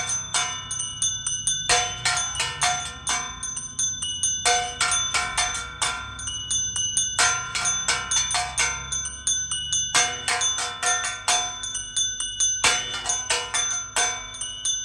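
Salta Cathedral's church bells ringing a fast peal: several bells of different pitches struck many times a second, their ringing overlapping in phrases of a few seconds each.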